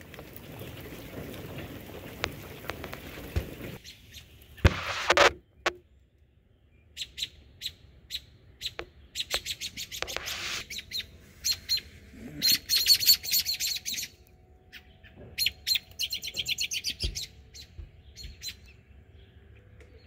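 Small bird chirping in bursts of quick, high, evenly spaced notes, repeated every second or so. Before the chirping starts there is a rough rustling hiss and one brief loud rustle about five seconds in.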